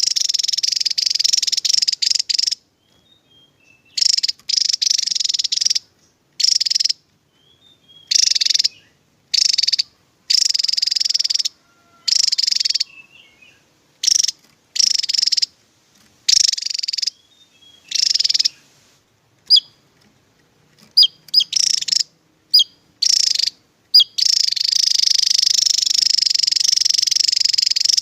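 Javan tesia singing its rapid 'tembakan' bursts: dense, high twittering phrases of half a second to two seconds, repeated with short pauses. A few short sharp single notes come about twenty seconds in, and a longer burst of about four seconds comes near the end.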